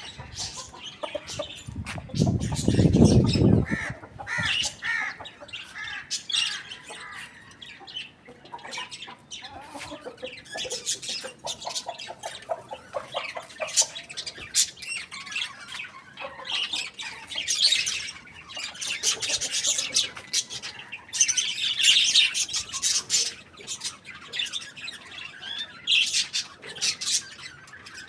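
Chickens on a rooftop, a rooster and a hen, clucking, with many short high bird chirps throughout. A loud low rumble comes about two seconds in and lasts about a second and a half.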